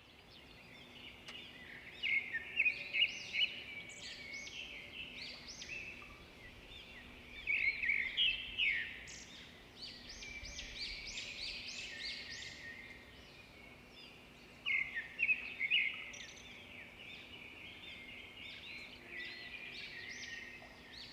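Wild birds singing in a busy chorus of quick chirps and short trills, with louder bursts about two seconds in, around eight seconds and near fifteen seconds.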